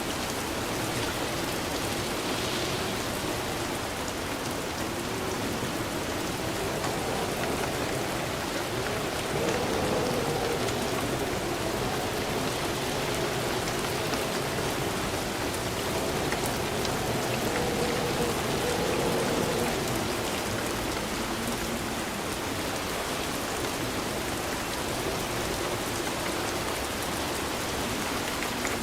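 Steady rain falling and pattering on surfaces, a dense even hiss that swells slightly about a third of the way in and again about two thirds in.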